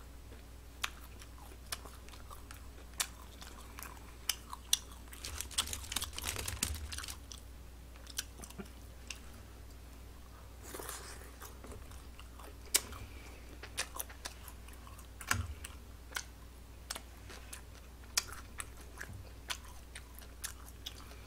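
A person chewing and biting food close to the microphone, with many short, sharp wet mouth clicks and smacks. The chewing gets busier about five to seven seconds in and again around eleven seconds.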